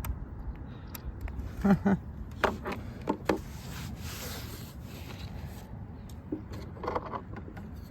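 Handling noises from an RC speedboat's plastic hull and canopy: several short clicks and knocks, and a brief scraping rub about halfway through.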